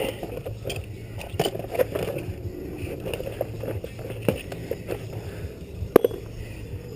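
Small metal clicks, taps and scrapes of hand tools and parts being handled while fitting a part on a motorcycle, with one sharp click about six seconds in, over a steady low hum.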